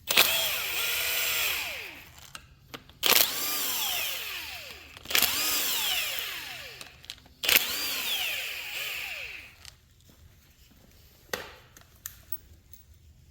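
Power driver spinning out bolts from an LS V8's rear cover plate: four runs of a couple of seconds each, every one starting with a sharp click and a motor whine whose pitch rises and then falls away. A single click follows near the end.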